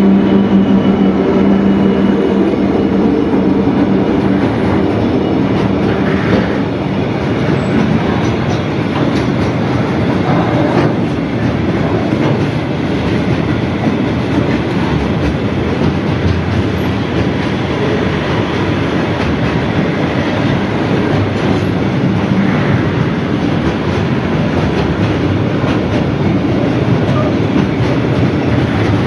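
Pacific National diesel freight locomotive passing close by, its engine hum fading after the first few seconds, followed by a long train of container wagons rolling past with a continuous rumble and wheel clatter.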